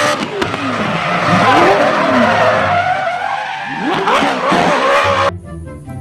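Rally-prepared Volkswagen Beetle's air-cooled flat-four engine revving hard, its pitch rising and falling through the gears, over the hiss of tyres sliding and spraying gravel on a dirt stage. The sound cuts off suddenly about five seconds in.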